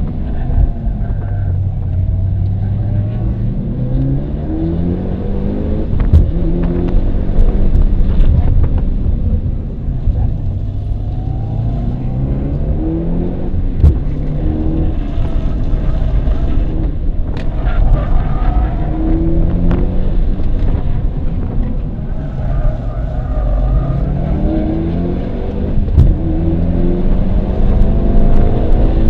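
Car engine under hard acceleration on a circuit, heard from inside the cabin: the pitch climbs through each gear and drops back at every shift, several times over, with road and tyre noise beneath.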